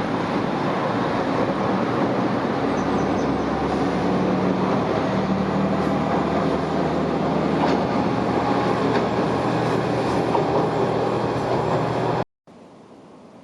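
Diesel railcar of the non-electrified Oito Line, a KiHa 120, running close by: a steady engine drone under loud wheel and rail noise.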